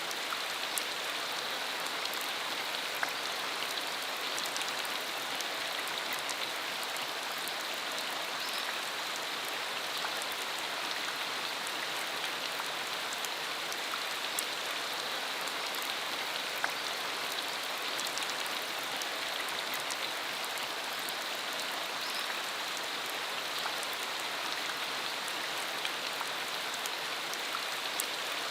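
Steady rain falling, an even hiss scattered with many sharp ticks of single drops.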